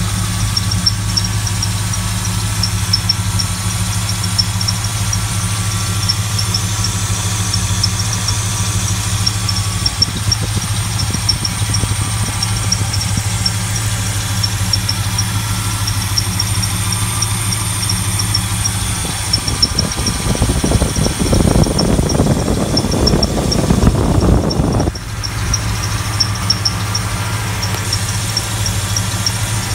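Engine fitted with an Edelbrock 1407 four-barrel carburetor and no choke, idling steadily, with a light, fast high-pitched ticking over it. Past the middle it turns louder and rougher for about five seconds, then settles back to idle.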